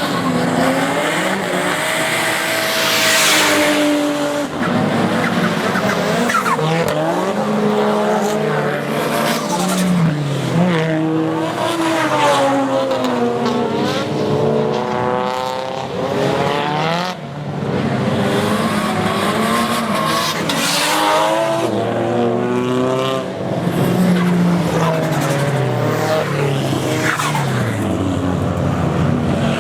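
Drift cars' engines revving hard, with several engines rising and falling in pitch over one another as the cars are throttled through slides. Bursts of tyre noise flare up about 3 seconds in and again around 21 seconds.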